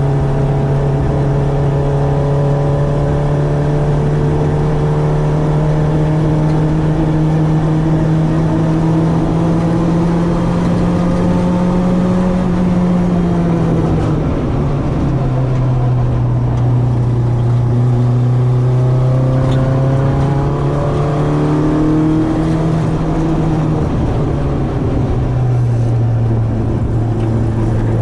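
Citroen AX 8-valve four-cylinder engine on twin Weber 40 carburettors, running hard under load. Its note climbs slowly for about thirteen seconds, drops sharply about halfway through, climbs again a little, then drops once more near the end.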